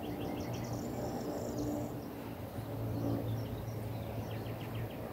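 Small birds chirping: a quick run of high chirps at the start and again about four seconds in, with a higher trill in between, over a steady low hum.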